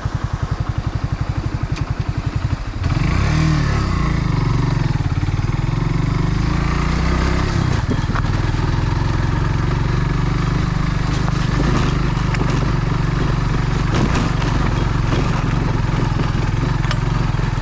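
Kawasaki W175's air-cooled single-cylinder engine running at low revs in slow, even pulses. About three seconds in it gets louder as the bike picks up speed, its pitch rising and falling through gear changes, then it runs on steadily under way.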